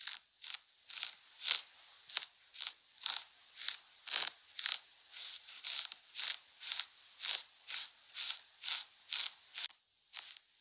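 Makeup being applied close to the microphone: short, scratchy strokes of a makeup tool, about two a second, stopping briefly near the end.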